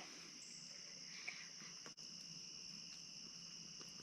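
Crickets chirring in a steady, faint outdoor chorus, a constant high-pitched trill with a second, lower band beneath it.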